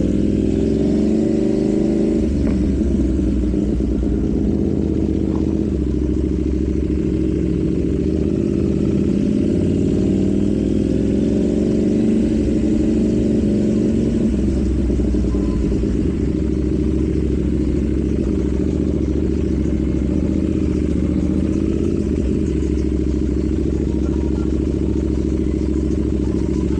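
KTM Duke 790's parallel-twin engine through an Arrow full exhaust system, running at a steady cruise with the revs rising and easing gently a few times, over a low wind rumble.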